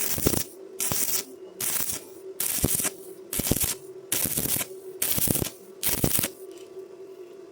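Eight rhythmic scraping strokes on metal, each about half a second long and coming a little faster than one a second, stopping about six seconds in. They are typical of hand-brushing or filing a weld.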